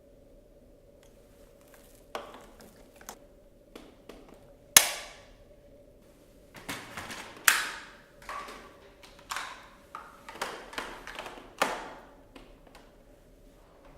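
Sharp hard-plastic clicks and knocks from a Dyson Light Ball upright vacuum's wand and hose being released and handled, about a dozen in all. The two loudest come about five and seven and a half seconds in.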